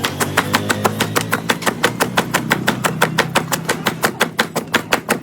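Rapid, very even sharp taps, about six a second, over a steady low hum.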